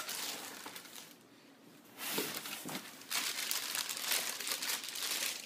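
Packaging being handled and unwrapped, crinkling and rustling. There is a short burst at the start, a quieter pause, then louder, steady crinkling from about two seconds in.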